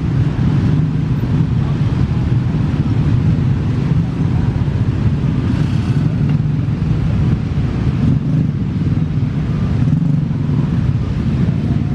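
Steady low engine drone from motor vehicles, running without a break.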